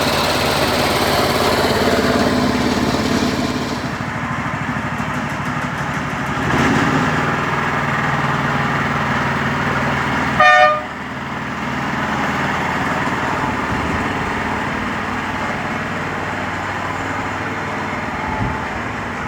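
Petrol engine of a 7¼-inch gauge petrol-electric miniature locomotive running steadily after repairs. It is broken by one short horn toot about ten seconds in, the loudest sound.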